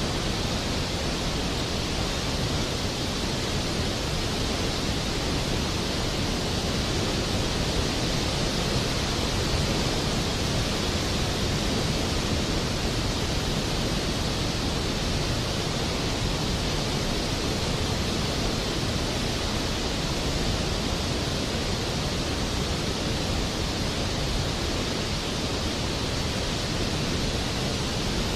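Steady rain: an even, unchanging hiss with no separate drops, thunder or music.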